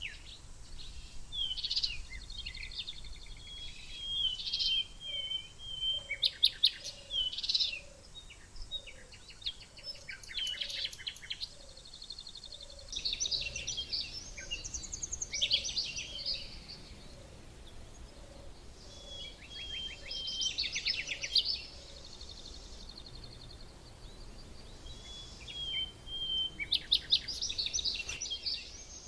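Several small songbirds chirping and singing in repeated bursts of quick trills and short whistled phrases. Under them, a faint low note repeats about twice a second through the middle.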